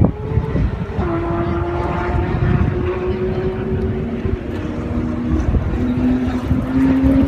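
An engine running with a steady drone that steps down in pitch about five seconds in, over a low rumble.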